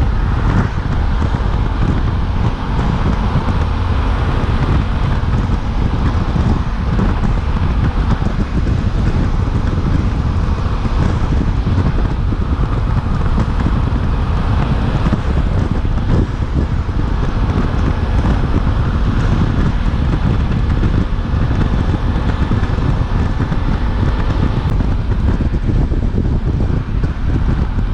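Suzuki V-Strom 800DE's parallel-twin engine running at a steady pace while riding, largely buried under heavy wind noise on the camera microphone.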